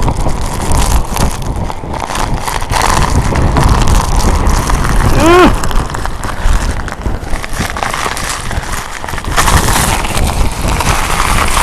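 Typhoon-force wind buffeting the microphone: a loud, rumbling rush that swells and eases with the gusts. A brief rising-and-falling tone cuts through about five seconds in.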